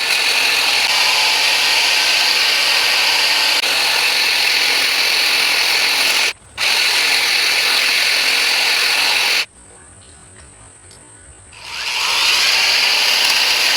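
Cordless rotary grass shears running and cutting grass along a lawn edge, with a steady motor whir. The motor stops briefly about six seconds in, stops again for about two seconds, then winds back up and runs on.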